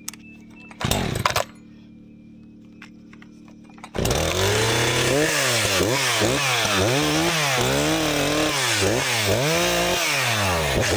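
Stihl 500i chainsaw cutting pine at full throttle. Its engine pitch dips and recovers over and over as the chain loads up in the wood. Before that there is a low steady hum and a short loud noise about a second in, and the saw cuts in suddenly about four seconds in.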